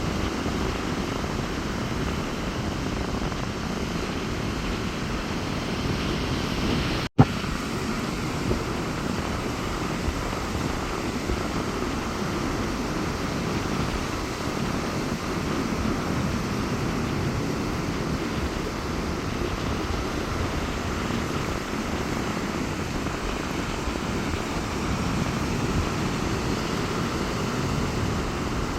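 Rough sea surf breaking on a beach in strong wind, a steady rushing noise with wind rumble on the microphone. A split-second dropout with a click comes about seven seconds in.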